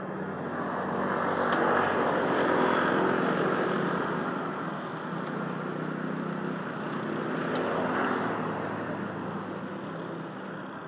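A motor vehicle engine running, growing louder and fading away twice, as when vehicles pass close by.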